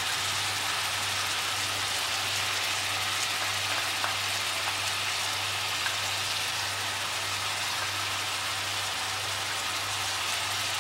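Goat meat, onions and spice masala sizzling steadily in hot ghee in a stainless-steel pressure cooker pan on a gas burner, with a low steady hum underneath. Two light taps of a spoon or bowl against the pot come about four and six seconds in.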